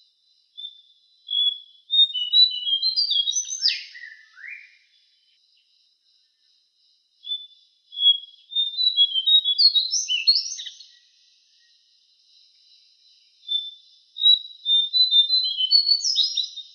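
Cingcoang (jongkangan) songbird singing three rapid, jumbled phrases of high chirps and short slurred notes, with pauses of a few seconds between them. A faint steady high hiss runs underneath.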